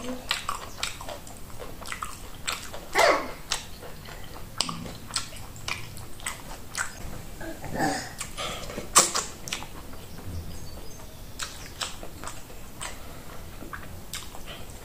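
Close-miked chewing and eating by hand of meat and oat fufu in peanut soup. Many short, irregular mouth clicks and smacks, with a few louder ones about 3 and 9 seconds in.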